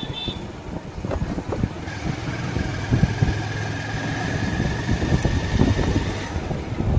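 Wind buffeting the microphone on a moving motorcycle, over engine and road noise. A steady high whine starts about two seconds in and stops about six seconds in.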